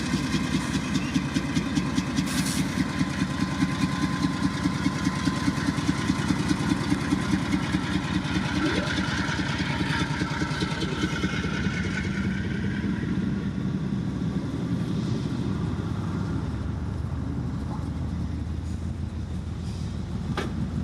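GE diesel locomotive running as a mid-train distributed-power unit, passing under power with its engine chugging in a rapid, even beat. After about twelve seconds the beat gives way to a steadier, quieter rumble as the train keeps rolling by.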